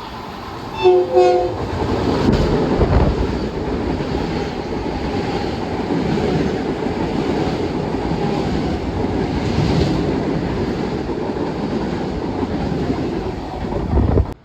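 Long Island Rail Road train sounding two short horn blasts about a second in, then passing with loud, steady wheel-on-rail noise that cuts off abruptly near the end.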